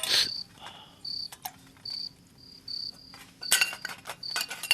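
Crickets chirping, a short high-pitched chirp repeating about every three-quarters of a second. A few sharp clicks cut in, one at the start and a cluster near the end, louder than the chirping.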